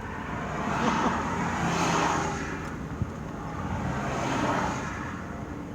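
Vehicles passing on a road: engine and tyre noise swells and fades twice, with a short click in between.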